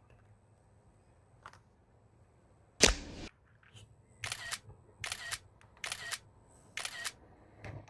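Camera shutter clicks: one loud shutter sound about three seconds in, then a run of about five more, roughly a second apart.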